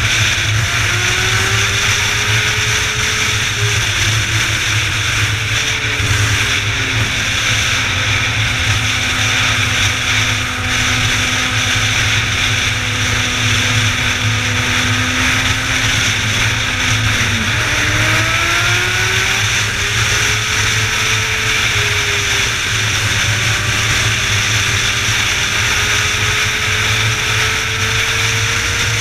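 Motorcycle running at speed with steady road and wind noise. Its engine pitch slowly rises and falls, dropping sharply and climbing again about two-thirds of the way through, as after a gear change.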